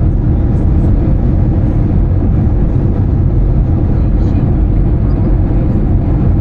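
Steady low rumble of Airbus A320 cabin noise, the engines and airflow heard from inside the passenger cabin.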